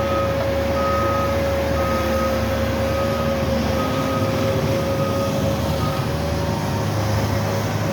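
Snow-clearing machine's diesel engine running, with a steady whine at one pitch over the low rumble. A reversing alarm beeps a little faster than once a second and fades out about six seconds in.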